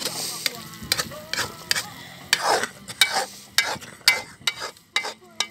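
A spoon scraping and knocking in a kazan as the rice of a plov is stirred, with irregular clinks several times a second over a faint sizzle of oil.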